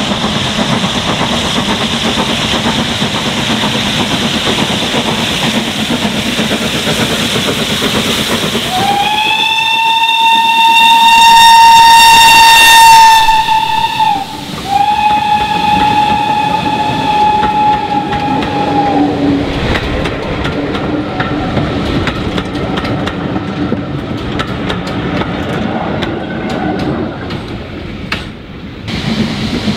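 Steam train running, then the locomotive's steam whistle sounds two long blasts with barely a break between them, rising slightly into its note at the start. After the whistle, sharp irregular clicks of wheels over rail joints sound over the running noise.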